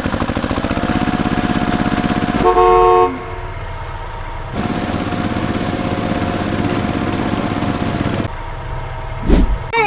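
A vehicle engine running with a fast, even putter, interrupted about two and a half seconds in by a loud horn honk. The engine then runs again, and a short rising sweep comes near the end.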